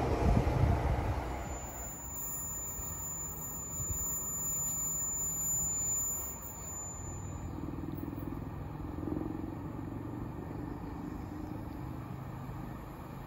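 Diesel multiple-unit passenger train fading away as it leaves, dying down over the first two seconds to a low, steady distant rumble. A thin high steady tone runs for about six seconds.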